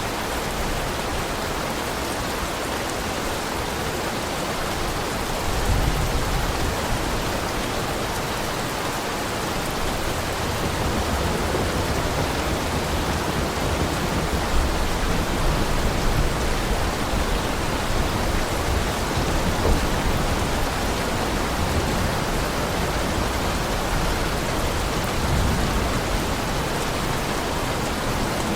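Heavy rain falling steadily, with low rumbling that swells up now and then, first about five seconds in.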